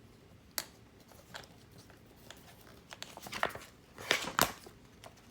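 Handling a Blu-ray steelbook case and its paper inserts: a sharp click about half a second in, then a cluster of taps and paper rustling a few seconds later.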